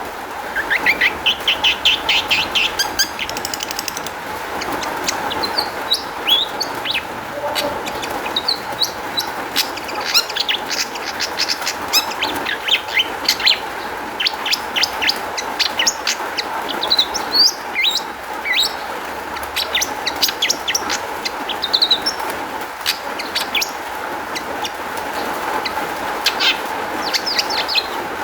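Long-tailed shrike (cendet) singing a fast, varied string of sharp chirps, short trills and gliding whistles, a song filled with borrowed calls of other birds, over a steady hiss.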